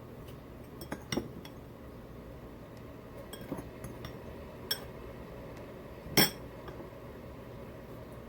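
Tableware being handled: a few scattered light clinks and taps, with one sharper, louder clink about six seconds in.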